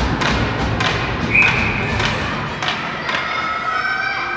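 Rink noise during an ice hockey game: repeated thumps and knocks of sticks, puck and boards, with a brief high squeak about a second and a half in and a drawn-out shout or cheer near the end.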